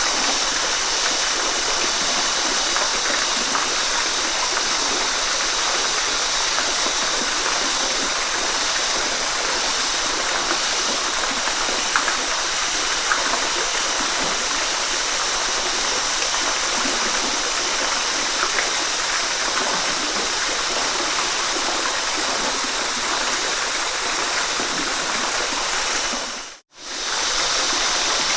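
Waterfall: a steady rush of falling water. It cuts out for an instant near the end and then resumes.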